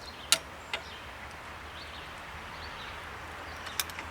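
A few sharp metallic clicks of a screwdriver working small screws into the cover of a Perkins diesel's mechanical lift pump: one loud click near the start, another just after, and a quick pair near the end.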